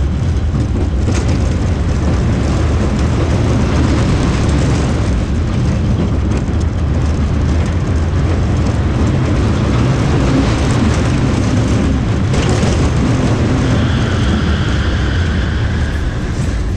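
Roller coaster train running along its track, heard from on board: a loud, steady rumble of the wheels and the ride, with a high tone coming in near the end.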